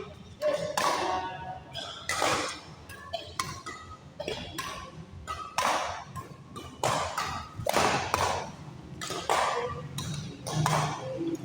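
A badminton rally: rackets striking the shuttlecock again and again, sharp hits about one or two a second that echo in an indoor sports hall.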